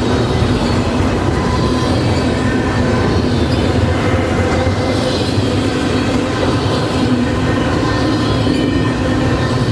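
Freight train rolling past, a steady loud rumble of railcar wheels on the rails.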